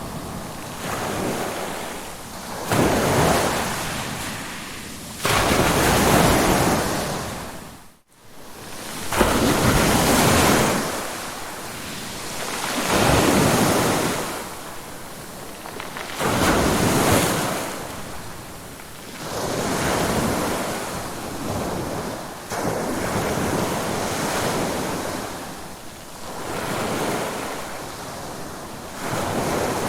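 Ocean waves breaking and washing up on a shore, a new surge every three seconds or so, each swelling and then fading. About eight seconds in, the sound drops out for a moment.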